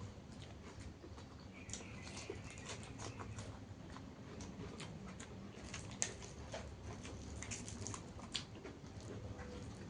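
Close-up chewing of a meal of fried fish and raw vegetables (lalapan): wet, crackly mouth sounds and small irregular crunches, with two sharper clicks about six and eight and a half seconds in.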